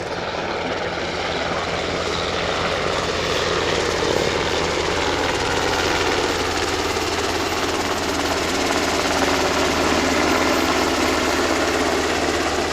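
Sikorsky UH-60 Black Hawk helicopter flying, its rotor and twin turbine engines making a steady drone that grows a little louder over the first few seconds.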